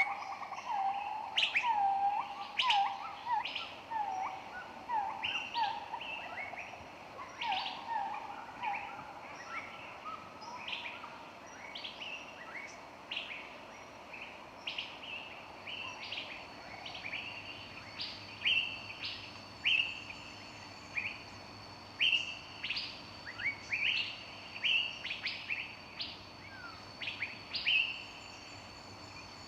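Several songbirds chirping in a forest, with short, sharp high chirps from different birds throughout. For the first several seconds, a lower-pitched bird repeats short notes over and over. A thin, steady high tone runs underneath from about five seconds in.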